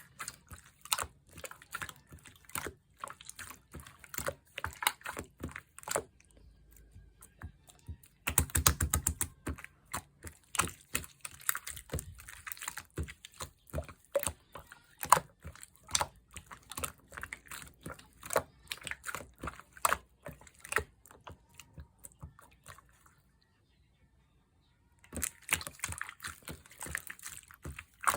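Clear pink slime being squeezed and stretched by hand, giving an irregular run of sticky clicks and small pops. There is a dense flurry of clicks about eight seconds in and a short pause near the end.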